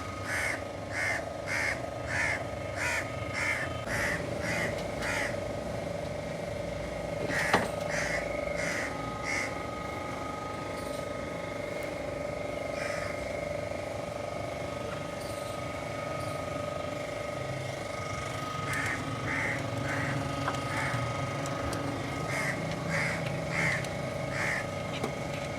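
A bird calling in bouts of short, harsh, evenly repeated calls, about two a second, several bouts in all. There is a single sharp knock about seven seconds in, over a steady faint hum.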